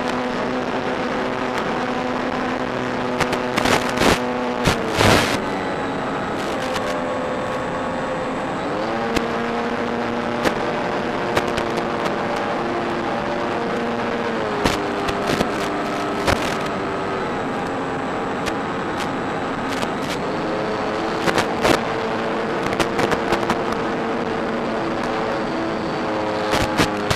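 Electric motor and propeller of a Durafly Bf 109 E-4 RC warbird humming in flight, the pitch stepping up and down as the throttle changes. Short bursts of crackle break in, the strongest about four to five seconds in.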